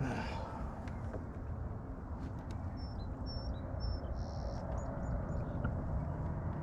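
Several short, high bird chirps and whistles in a cluster midway through, over a steady low outdoor rumble.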